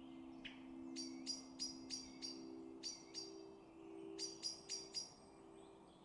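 A bird calling in short runs of sharp, clipped high notes, about three a second: a run of four or five, then two, then four near the end. A steady low hum lies underneath.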